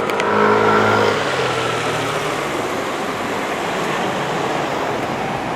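A road vehicle's engine running close by, its note fading away after about a second and a half, then steady street traffic noise.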